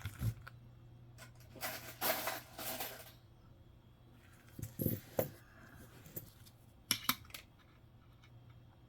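Pennies clinking as they are handled and dropped into a coin tube, in a few short bursts of rattles and clicks.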